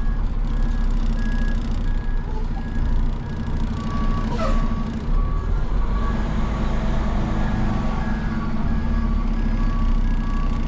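Truck engine running steadily with a reverse alarm beeping at an even pace; a second, lower-pitched backup beeper joins about four seconds in.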